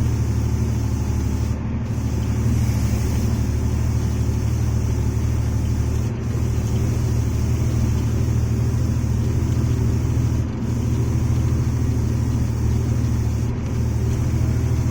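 Truck engine and road noise as the truck drives along, a steady low drone that dips very briefly four times.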